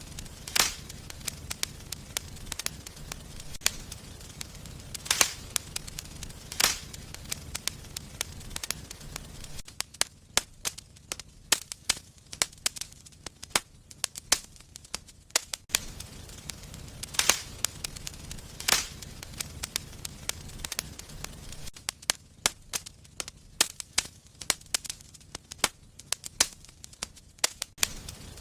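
Wood fire burning in a fireplace, crackling with frequent irregular sharp pops and snaps over a low steady rumble. The rumble drops away twice for several seconds while the snapping goes on.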